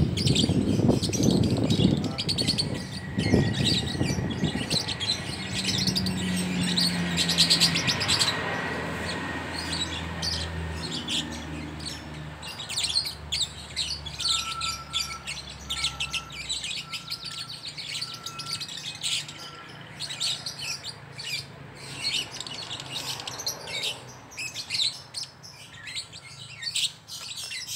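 Young lovebirds chattering and squabbling in a fight: a dense run of rapid, high-pitched chirps and calls that goes on without pause. A low rumble sits under the first several seconds and fades out, and a short note repeats about once a second in the middle.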